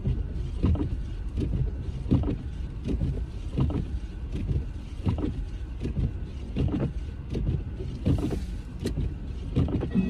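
Car interior while driving: a steady low rumble of engine and tyres, with a regular beat about every three-quarters of a second.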